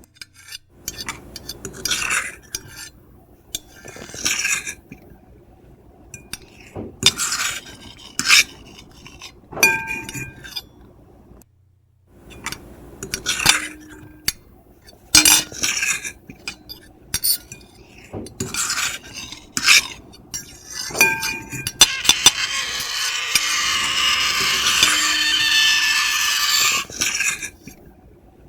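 Metal fork and knife scraping and clinking on a plate: short scrapes and taps, some leaving the plate ringing, then one long continuous scrape of about five seconds near the end.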